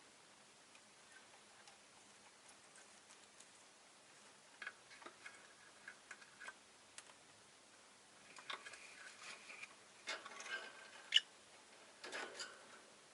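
Rosy-faced lovebird's quiet chattering: scattered soft clicks and short, faint chirps that grow busier in the second half, with one sharp click late on.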